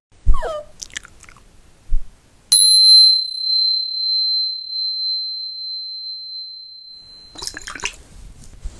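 A small bell struck once, ringing one clear high note that slowly fades over about five seconds. Before it there is a sharp knock, and scuffling and handling noise follows near the end.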